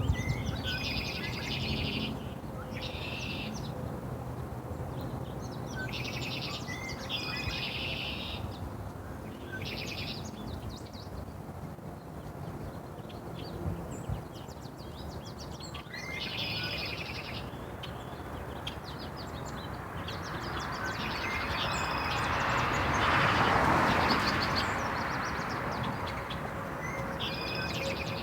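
A small songbird singing short, fast chirping trills of about a second each, repeated every few seconds, over steady outdoor background noise. A broad rush of noise swells up and fades away about twenty seconds in.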